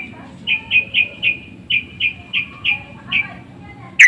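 Yellow-vented bulbul (trucukan) calling: a quick run of about a dozen short, even notes, about four a second, with a louder, sharper note near the end.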